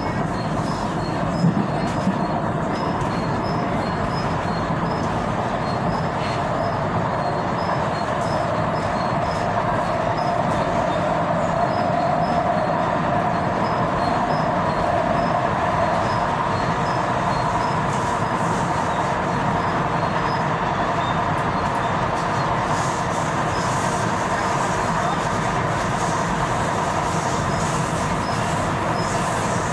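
Tyne and Wear Metro train running along the track, heard from inside the carriage: a steady rumble of wheels on rail, with a whining tone that swells and fades about halfway through.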